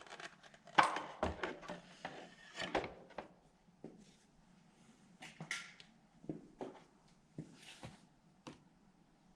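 Scattered light clicks, knocks and rustling from hands handling parts on the motorcycle, busiest in the first few seconds and sparser after.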